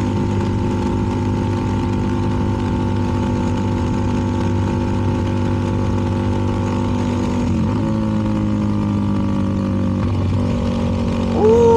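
CFMoto 300NK's single-cylinder engine through a KO aftermarket exhaust, running steadily at cruising speed over wind and road noise. A little before the eight-second mark the exhaust note shifts and then sinks slowly, and it changes again about ten and a half seconds in.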